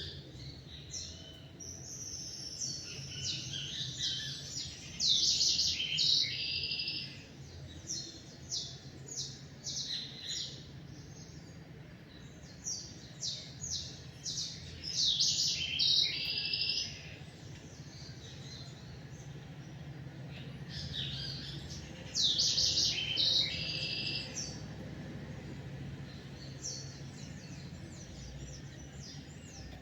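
Songbirds singing: one bird gives a song of quick, high chirping notes three times, roughly every nine seconds, with other chirps between, over a steady low hum.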